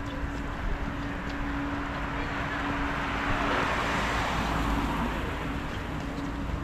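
A car driving past on the street, its tyre noise swelling to a peak about halfway through and then fading.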